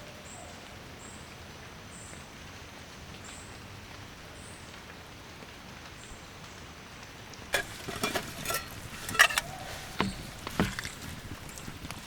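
Steady hiss of rain. About seven and a half seconds in, a cluster of sharp knocks and clatters comes for roughly three seconds, the loudest near the middle of it.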